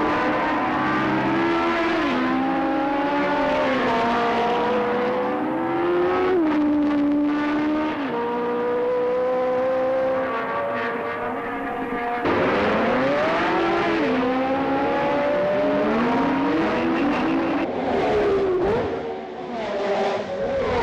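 1970s Formula 1 car engines at racing speed, the pitch repeatedly climbing and then dropping sharply as the cars shift gear. About twelve seconds in the sound changes abruptly to another car accelerating hard.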